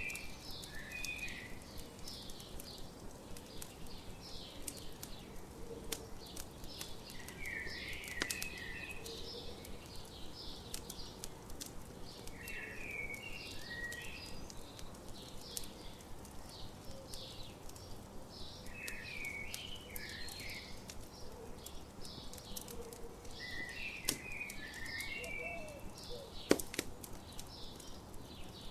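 Morning birdsong: a short warbled phrase comes back about every five to six seconds over lighter, higher chirping. A campfire crackles underneath with scattered sharp pops, one louder pop near the end.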